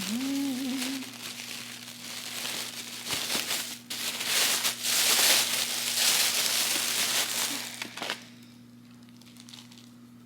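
Plastic takeout bag crinkling and rustling as food containers are taken out of it, for about eight seconds, then it stops.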